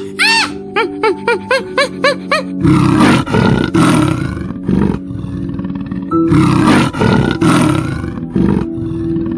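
Leopard roaring in two bouts of repeated rough strokes, starting about three seconds in and again about six seconds in, over soft background music. Before it comes a run of short, high squeaks.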